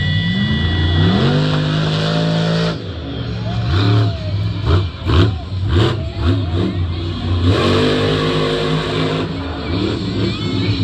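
Monster truck's supercharged V8 revving hard: the pitch climbs over the first couple of seconds and holds, then a run of quick blips from about four to seven seconds in, then another held high rev.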